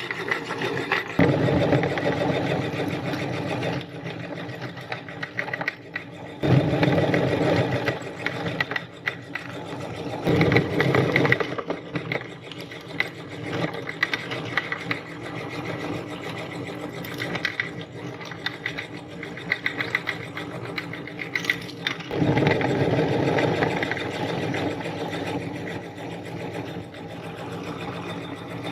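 Electric meat grinder running steadily while grinding colourful chalk, louder in several stretches.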